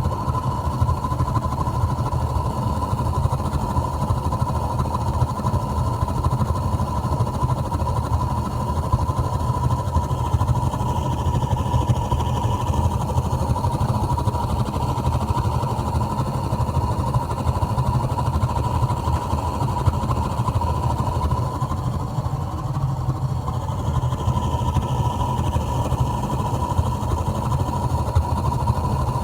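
Kenmore gas water heater's burner running with a continuous low rumble and a steady high tone, the noise its owner calls explosion noises.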